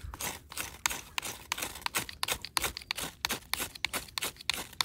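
A fire steel being struck over and over to throw sparks onto damp tinder, a quick run of short sharp scrapes, about five or six a second.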